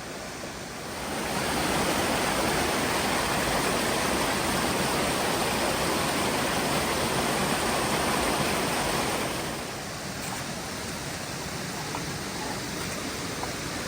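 Mountain stream water rushing over rocks, a steady noise that grows louder about a second in and eases back after about nine and a half seconds.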